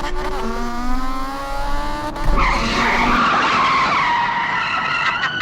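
Motorcycle engine running and revving, its pitch gliding slowly, with a squealing skid-like sound joining in a little after two seconds.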